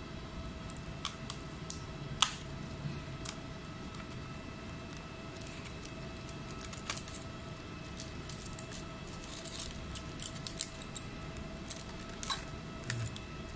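Scattered small clicks and taps of tools and laptop parts being handled, the sharpest about two seconds in, over a steady faint electrical hum.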